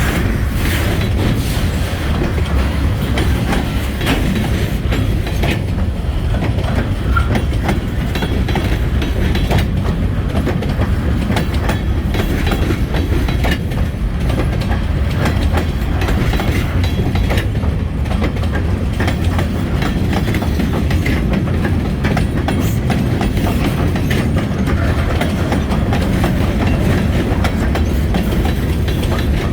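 Freight train cars rolling past with a steady rumble and a run of wheel clicks over the rail joints.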